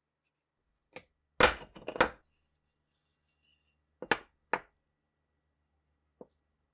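A series of separate knocks and clunks with silence between them: the loudest cluster comes about one to two seconds in, two sharp knocks follow around four seconds, and two fainter ones come near the end.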